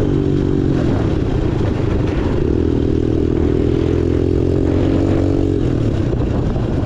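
Small off-road ATV or pit bike engine running under way. Its pitch drops about a second in, picks up again at about two and a half seconds and holds steady, then eases off near the end.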